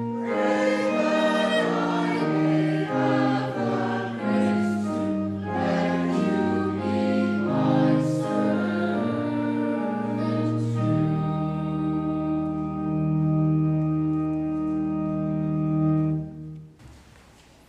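Choir singing a hymn in parts, ending on a long held final chord that stops about three-quarters of the way through.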